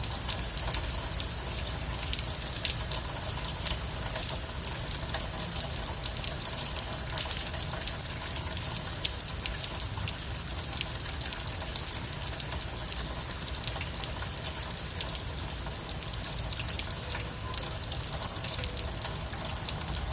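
Gentle rain falling steadily: an even hiss with many small, irregular drop ticks.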